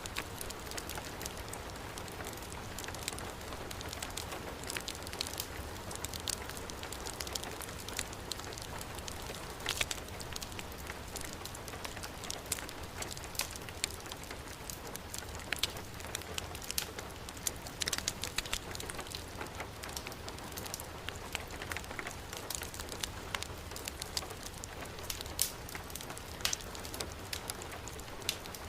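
Heavy rain falling steadily, mixed with a wood fire crackling in a fireplace, with frequent sharp pops scattered throughout.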